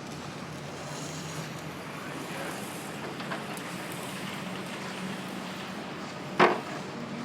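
Steady street traffic noise, with one short, sharp, loud sound about six seconds in.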